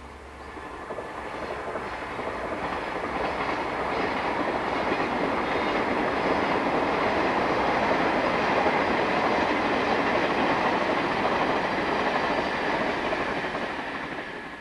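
A JR 381 series nine-car electric tilting express train running past on the line, its wheels sounding on the rails. The noise builds over the first few seconds, holds steady and loud, then cuts off suddenly near the end.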